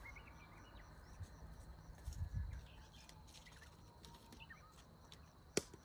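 Faint outdoor ambience with small birds chirping now and then. A dull low thump comes about two seconds in, and a single sharp click near the end.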